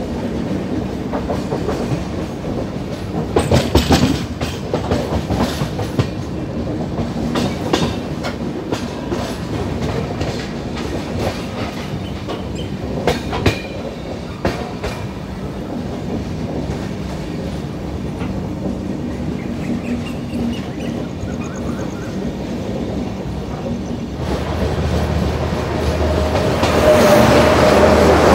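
Express passenger train running at speed: a steady rumble with wheel clicks over rail joints, a cluster of them about four seconds in. About four seconds before the end the noise swells into a much louder rush.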